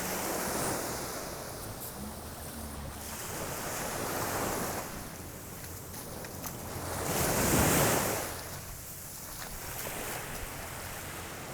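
Waves washing up on the beach, the wash swelling and fading every few seconds and loudest about two-thirds of the way through, with wind rumbling on the microphone.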